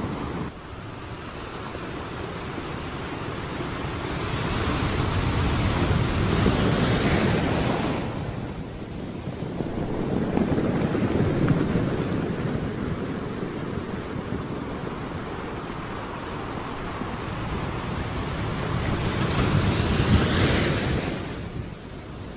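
Sea surf washing onto a sandy beach, swelling louder and fading away about three times as the waves come in, with wind buffeting the microphone.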